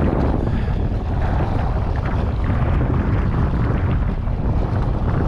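Wind blowing hard across the microphone, a steady low noise with no let-up.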